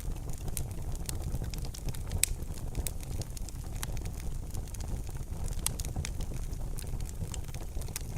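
Wood fire burning in a fireplace: irregular sharp crackles and pops over a steady low rumble of the flames, with a louder snap about two seconds in and another near six seconds.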